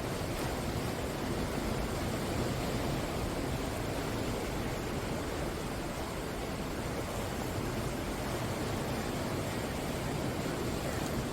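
Ocean surf breaking on the shore: a continuous, steady wash of waves with no distinct single crashes standing out.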